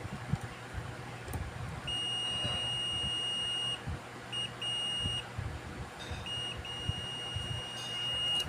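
Multitester continuity beeper sounding a steady high beep in stretches of one to two seconds, broken by short gaps and brief chirps as the probes make and lose contact; the tone signals a closed circuit between the probes.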